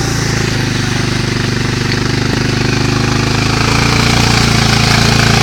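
ATV (quad bike) engine running at a steady speed, gradually growing louder.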